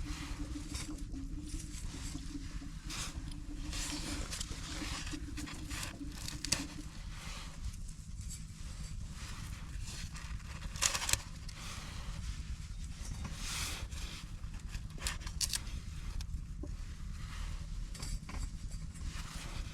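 Wood campfire crackling with irregular sharp pops over a low steady rumble, a couple of louder pops about eleven seconds in. A faint steady hum sits underneath for the first six or so seconds, then stops.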